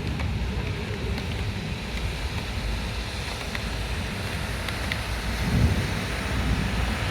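Heavy rain of a thunderstorm downpour falling steadily, with gusting wind buffeting the microphone in a low, uneven rumble and a few sharp ticks of drops striking.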